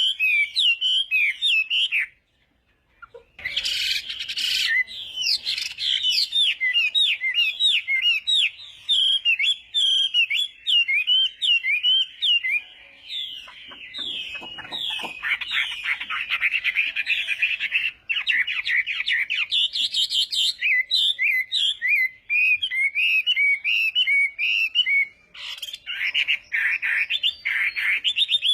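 Chinese hwamei singing a long, rich song of rapid, varied whistled notes. It breaks off for about a second, two seconds in, then resumes with a short burst of noise.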